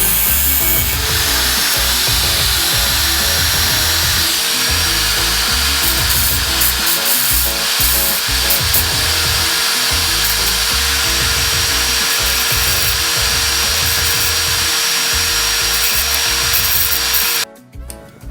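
A small power tool running steadily under load, a loud hiss with a faint steady whine, that cuts off abruptly near the end; background music plays beneath it.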